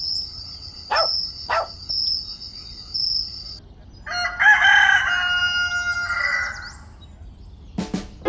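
A rooster crowing once, one long call about halfway through. Before it there is a steady high-pitched tone broken by two sharp clicks.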